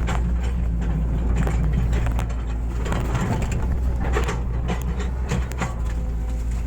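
Hitachi excavator's diesel engine running steadily under load, with scattered scrapes and knocks as it digs a ditch.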